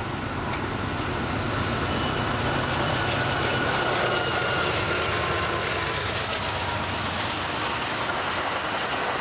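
N scale model passenger train with two locomotives running along the track, a steady rolling and motor noise with a faint thin whine above it.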